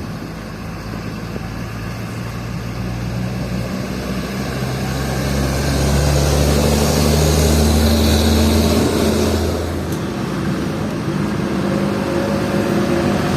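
Heavy diesel truck engine passing close by, its low engine note building and loudest from about six to ten seconds in, then easing off as another engine carries on.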